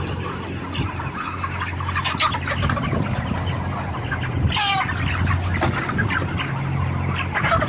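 A flock of broiler chickens clucking and chirping, many overlapping short calls with one louder, longer wavering squawk about halfway through, over a steady low hum.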